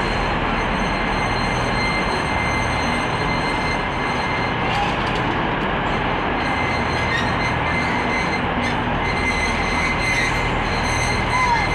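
A train running in a railway station: a steady, even rumble with a thin steady whine over it. Near the end comes a brief squeal that rises and falls.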